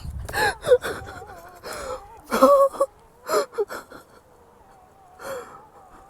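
A person's breathy vocal sounds in short bursts, gasp-like, the loudest about two and a half seconds in, over a faint wavering tone.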